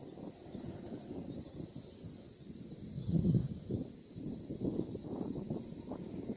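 Steady high-pitched drone of insects chirring, likely crickets, over an irregular low rumble.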